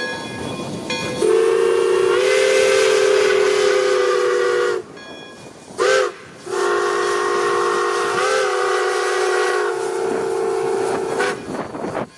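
Steam locomotive's chime whistle blowing several notes at once: a long blast, a short one, then another long blast, over the hiss and rumble of the moving train.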